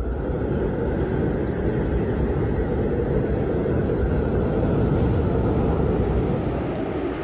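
Steady, loud rumbling noise with no clear tone or rhythm.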